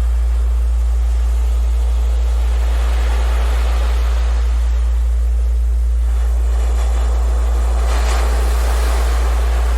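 Ocean surf washing ashore, swelling with a breaking wave about three seconds in and again near the end, over a steady deep tone played as a Rife 'healing' frequency.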